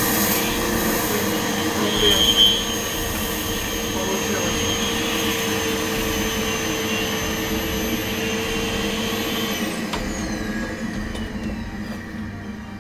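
Household vacuum cleaner motor running steadily, sucking up sawdust through a hose and a homemade pipe settling chamber, with a brief louder burst about two seconds in. About ten seconds in it is switched off and its whine falls in pitch as the motor spins down.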